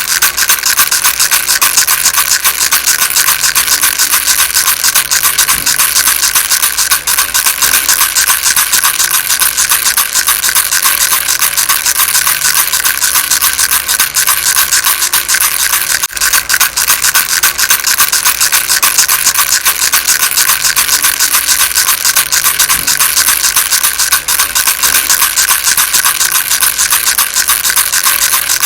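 A baby rattle shaken continuously, giving a dense, fast, even rattling with a brief break about sixteen seconds in.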